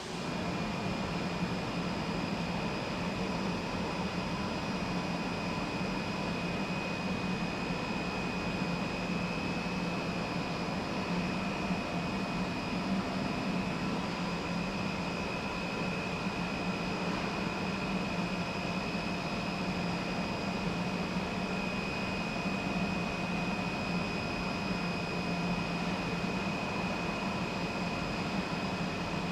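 Steady industrial machinery noise on a hot-dip galvanizing line: a constant low hum with a steady high-pitched whine above it.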